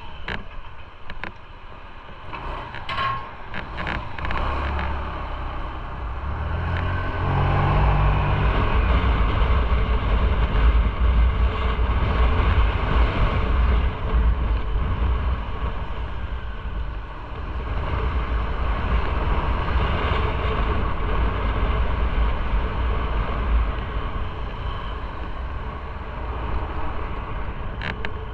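Motorcycle riding along, its engine running under a rush of wind noise; about seven seconds in the engine note rises as it speeds up and the sound grows louder.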